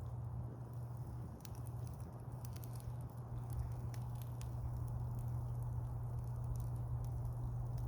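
Wood campfire crackling, with scattered sharp pops and snaps, a cluster of them about two to three seconds in, over a steady low rumble.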